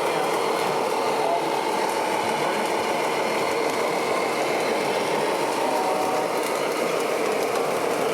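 Steady mechanical running noise of RC model trucks' electric motors and gearboxes, with faint short whines coming and going. Indistinct voices murmur in the background.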